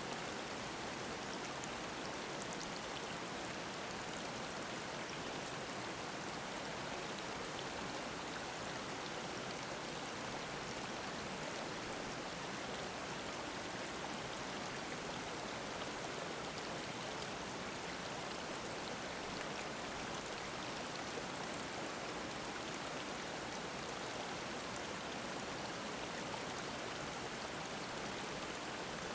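Mountain stream flowing over rocks in a rocky gorge: a steady, even babble of water.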